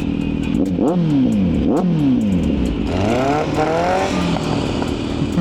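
Vehicle engines in slow traffic: a steady idle, with two quick revs that rise and fall about one and two seconds in, then an engine accelerating about three seconds in.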